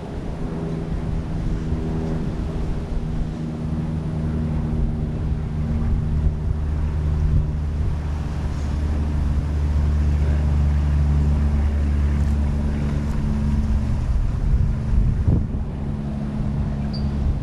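A boat motor running steadily with a low hum that eases off toward the end, with wind buffeting the microphone.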